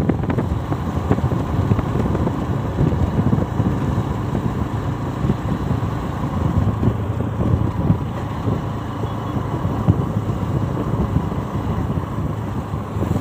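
Motorcycle on the move, its engine running steadily under a heavy rumble of wind on the microphone.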